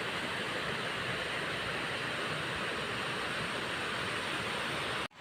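Steady rushing of flowing river water, even and unbroken, cutting out sharply just before the end.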